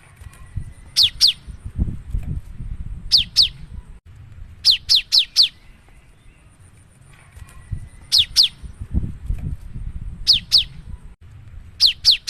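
Cinereous tit (gelatik batu) singing: sharp whistled notes, each falling steeply in pitch, given in quick groups of two to four and repeated every one to two seconds. A low rumbling noise runs underneath twice.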